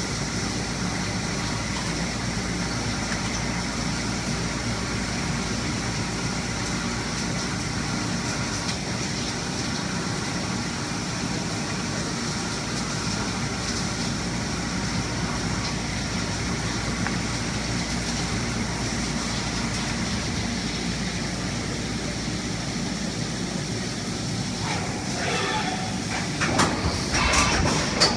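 Haas VF-2SS CNC vertical mill machining S355 steel, a steady mechanical cutting noise. Near the end the sound changes, with a few sharper, louder sounds.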